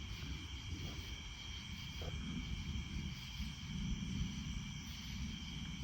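Low rolling thunder from a supercell thunderstorm, rumbling and swelling from about two seconds in, over a steady high trill of insects.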